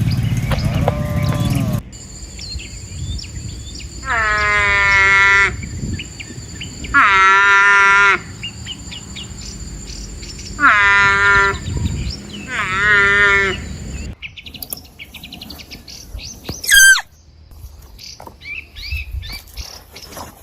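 A farm animal giving four drawn-out, wavering bleating calls, each about a second long, with a steady high insect drone behind. About two-thirds of the way in, a different animal takes over with quick high chirps and squeals that sweep sharply downward.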